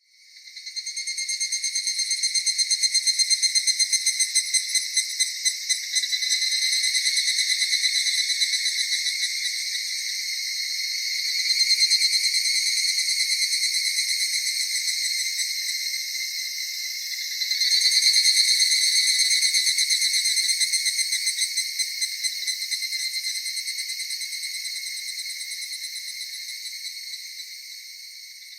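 Insects trilling in a fast-pulsing, high-pitched chorus. It fades in at the start, swells twice, then slowly fades away near the end.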